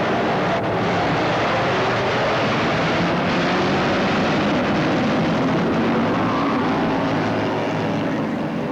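Racing motorcycle engines running, heard as a loud, steady mechanical drone.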